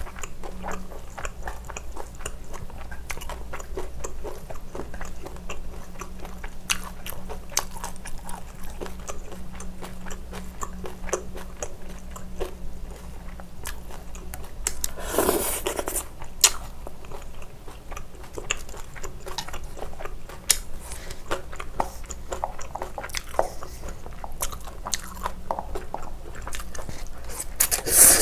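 Close-miked chewing and crunching of fried sweet and sour pork, with many fast wet clicks of mouth and food. There is a louder burst about halfway through and another at the very end.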